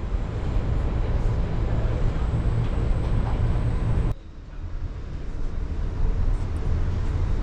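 Steady low rumble of the moving Amtrak California Zephyr passenger train, dropping off abruptly about four seconds in and building back up.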